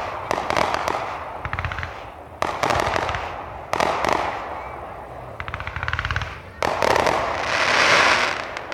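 Consumer fireworks going off: several sharp bangs a second or so apart, each followed by rapid crackling. Near the end comes a rushing hiss that swells and then fades.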